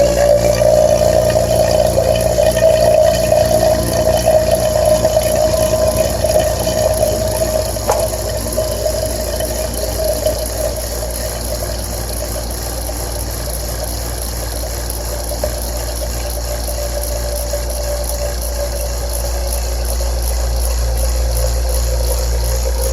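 Refrigeration vacuum pump running, pulling a vacuum on an air-conditioning line set through the manifold: a steady motor hum with a louder pumping note over the first several seconds that then eases to a steadier drone.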